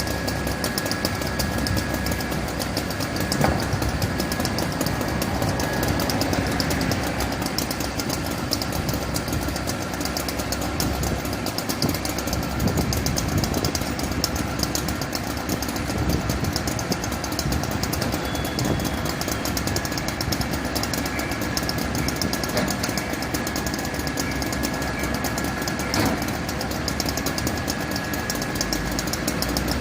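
Fire truck engine running steadily at idle, with a thin steady high tone over it.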